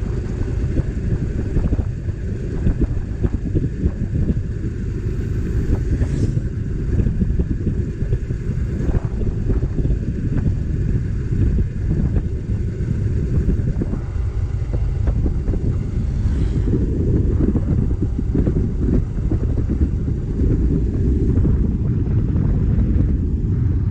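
Wind buffeting the microphone on a moving motorcycle, with engine and road noise underneath, steady throughout.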